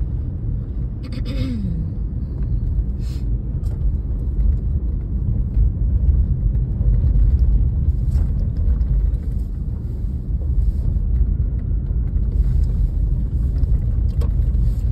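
Steady low rumble of a car driving on snowy roads, heard from inside the cabin, with a few faint clicks.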